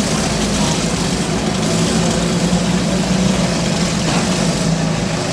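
Several lawn tractor engines running at once in a steady mixed drone.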